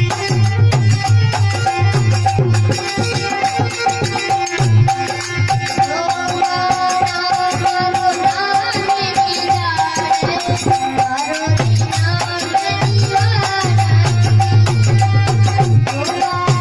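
Rajasthani desi bhajan folk music: a steady held tone with a melody line over fast rattling percussion and a drum beat. The low drum drops out for a few seconds in the middle, then returns.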